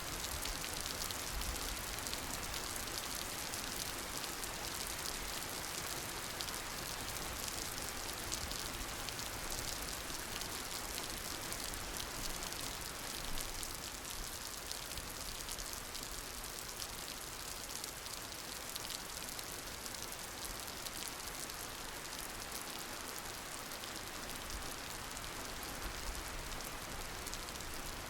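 Steady rain falling, a dense hiss of drops pattering on a surface.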